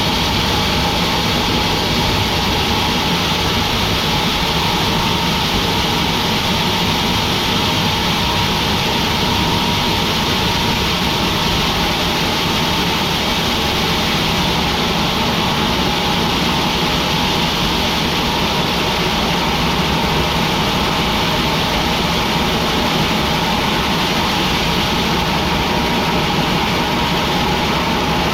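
Sawmill machinery running steadily, an unbroken engine-like drone with a constant whine through it.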